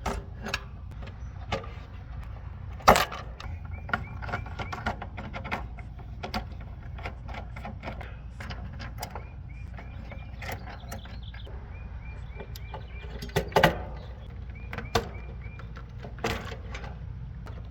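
Hands at work inside an air-conditioning unit: scattered clicks, knocks and rattles of wires and connectors being handled, with two louder knocks about 3 s and 13 s in, over a steady low hum.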